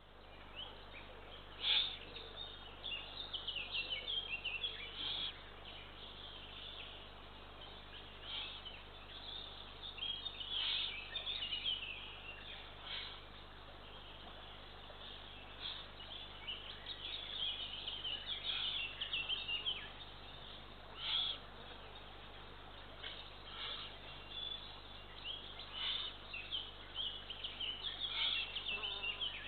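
Bird calls picked up by a nest-camera microphone: many short, high chirps and a few harsher calls of about half a second, coming irregularly, over a steady low hum.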